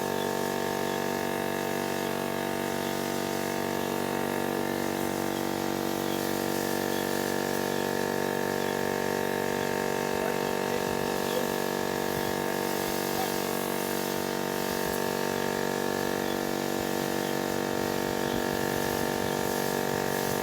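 Jet wash (pressure washer) running steadily, its pump motor giving an even, unchanging whine while water sprays.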